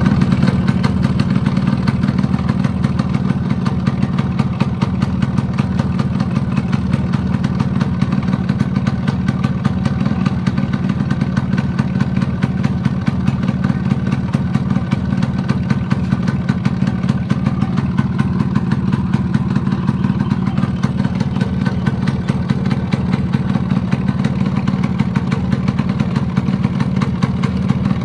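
Yamaha RX100's two-stroke single-cylinder engine idling steadily with a fast, even knocking in its running. The owner can't tell whether the knock is piston knock or a worn gudgeon (small-end) pin bearing.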